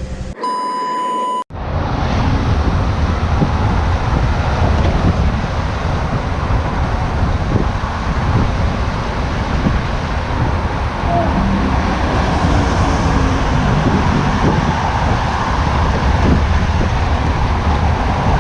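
Loud, steady wind and road rumble from a moving vehicle, with no clear engine note. It starts about a second and a half in, after a brief steady beep tone.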